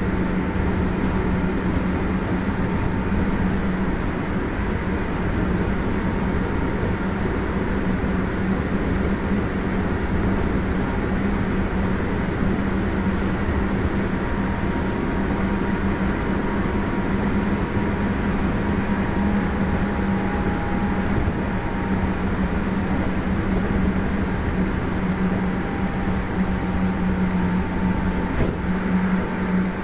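Onboard running sound of a Kintetsu 1420 series VVVF electric train at steady speed: continuous wheel-and-rail noise with a steady low hum and faint higher tones that hold their pitch.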